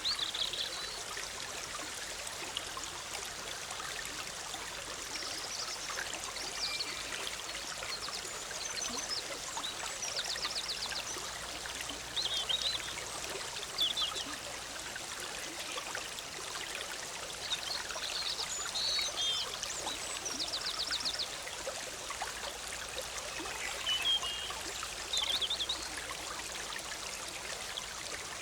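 Forest stream bubbling and trickling steadily, with birds chirping and giving short trills every few seconds above the water.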